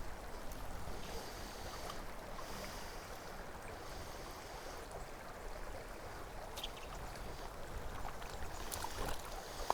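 Steady rush of a small mountain stream flowing over rocks, with a few faint clicks near the end.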